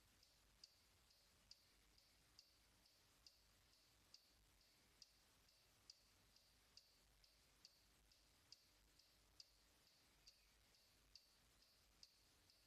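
Near silence with faint, regular high-pitched ticking, about two ticks a second with every other tick louder.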